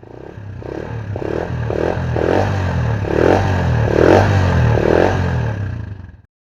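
Honda TMX Alpha 125 motorcycle's single-cylinder engine running, with a steady low hum and a rhythmic pulse about twice a second. It fades in and cuts off abruptly near the end.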